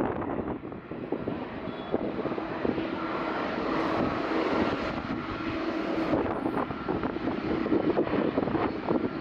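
Jet airliner's engines running steadily and slowly growing louder during the braking rollout after a strong-wind landing, with wind gusting on the microphone toward the end.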